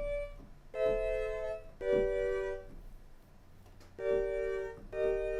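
A recorded found sound played back at pitch on a software sampler, sounding organ-like: four chords of a second or less each, with a pause between the second and the third.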